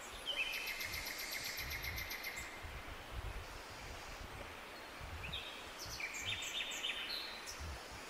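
Songbirds singing in two phrases: a fast trill with a held high note through the first two seconds or so, then another phrase of short high notes and trills about five to seven seconds in, over a steady wind-like hiss.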